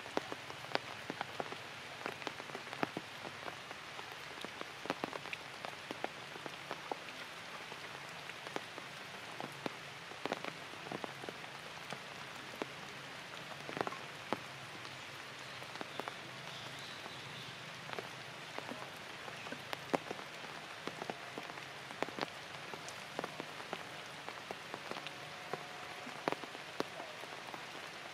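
Light rain falling on forest leaves: a steady hiss with many irregular drops ticking.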